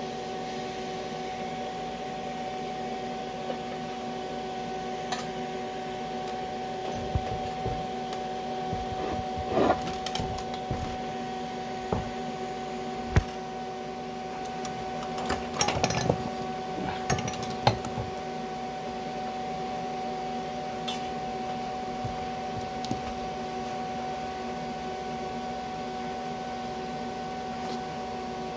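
Steady electrical hum and hiss from a TIG welding setup working on aluminum, with a handful of scattered knocks and clicks in the middle stretch.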